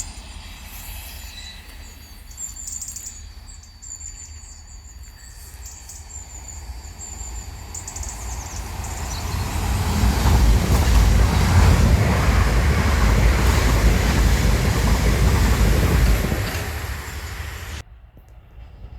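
A train passing on the line: its rumble and wheel noise build up about halfway through, stay loud for several seconds, then fade away. Birds chirp faintly before it arrives, and the sound cuts off suddenly near the end.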